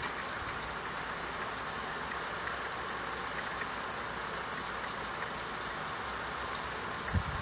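Steady rain falling, an even hiss with faint scattered drop ticks. A few soft low thumps come near the end.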